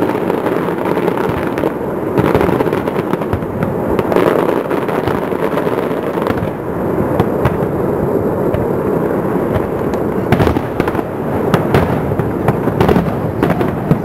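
Fireworks display going off in rapid succession: a dense, continuous crackle of many bursts and bangs, with a few sharper reports standing out in the second half.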